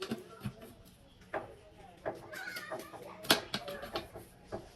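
Scattered sharp clicks and knocks of hand tools and metal parts being handled, with a voice heard briefly about halfway through.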